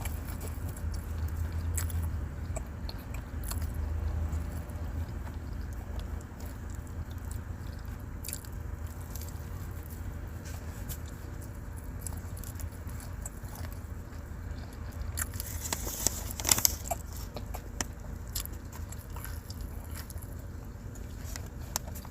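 Someone biting and chewing crunchy food, with scattered crunches over the steady low rumble of a moving car. A louder crackling burst comes about two-thirds of the way through.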